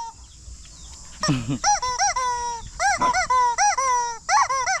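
Geese honking: a run of short, arched, nasal calls, several a second, from more than one bird overlapping at different pitches. A couple of lower, falling calls are mixed in.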